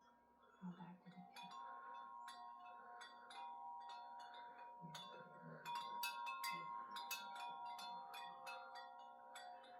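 Wind chimes ringing in the wind: many irregular strikes, each leaving long overlapping tones that build up after the first second or so.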